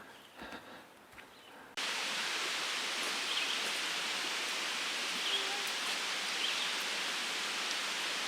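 Faint outdoor sounds, then about two seconds in a sudden cut to a steady, even outdoor hiss with a few faint high chirps.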